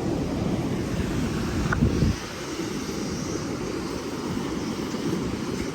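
Wind rumbling on the microphone over beach surf, heavier for about the first two seconds and then easing suddenly.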